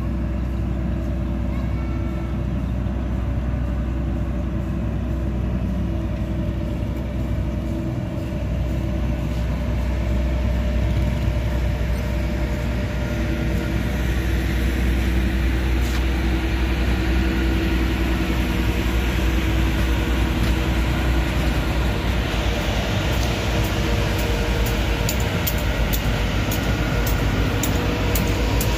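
Diesel multiple-unit commuter train departing the station: a steady low engine hum with a held tone over it, growing louder as the train pulls out and passes. Near the end come a run of sharp clacks from the wheels over rail joints.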